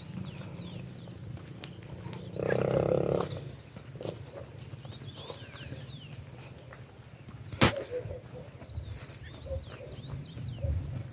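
A sheep bleats once, loudly, for about a second, a couple of seconds in, over scattered birdsong chirps and a low rumble. A single sharp click comes about two-thirds of the way through.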